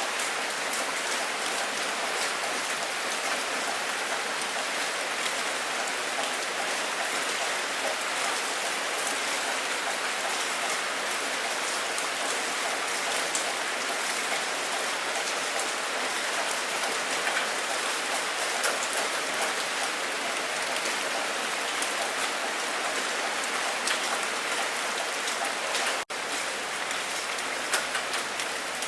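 Steady rain falling, a dense hiss with many individual drops ticking through it. The sound drops out for an instant near the end.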